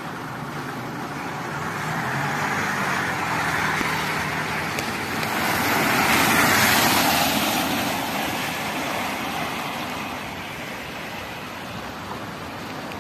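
Cars driving past on a wet road just after rain, with tyre hiss: the sound swells as vehicles approach, is loudest about six to seven seconds in, then fades away.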